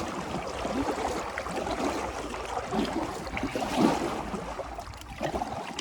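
River water rushing and lapping around a kayak in a strong current.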